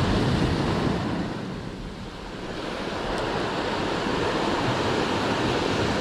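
Sea surf washing onto the beach, with wind buffeting the microphone; the wash eases about two seconds in and then swells up again.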